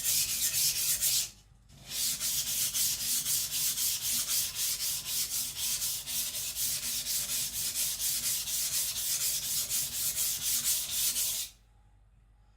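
Niolox-steel nakiri blade being stroked back and forth on a whetstone: a fast, even scraping of about four strokes a second, with a brief pause about a second and a half in, stopping suddenly near the end.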